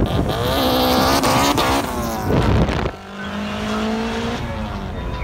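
Turbocharged Honda Civic hatchback under hard acceleration, its engine note rising in pitch. About three seconds in there is a brief dip at a gear change, then it pulls again and fades as the car draws away.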